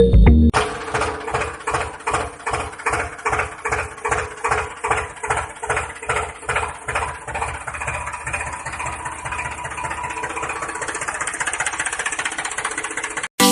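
Tractor engine chugging, its beats quickening into a fast, steady idle, then cutting off abruptly near the end.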